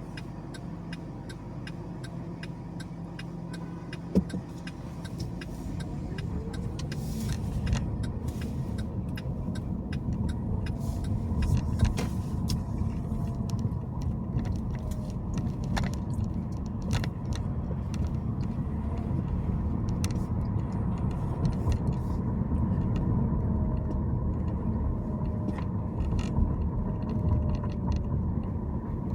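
Car driving, with steady road and engine noise that grows louder from about six seconds in as it picks up speed. Fast light ticking runs through the first few seconds, and there is one sharp knock about four seconds in.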